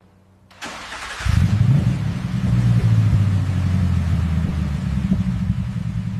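Suzuki Baleno car engine starting up about a second in, then running with a strong, low, steady sound.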